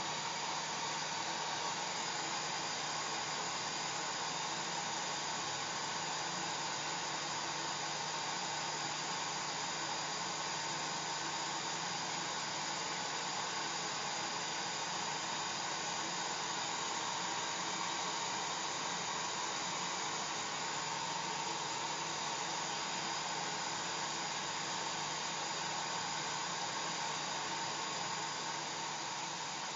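Hair dryer running steadily: an even rushing hiss of blown air with a faint motor hum and whine underneath, unchanging throughout.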